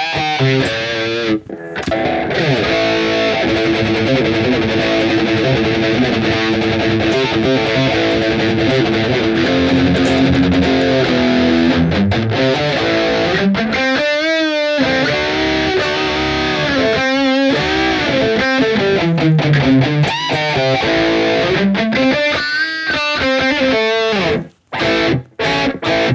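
Harley Benton Fusion electric guitar played through a distorted high-gain tone: riffs and lead lines with wide vibrato on held notes, breaking into short stops near the end.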